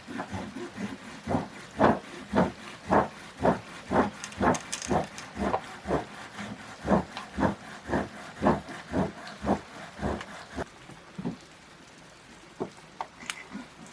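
Steady rhythmic thuds, about two a second, going on for some nine seconds and then stopping, over a faint background hiss.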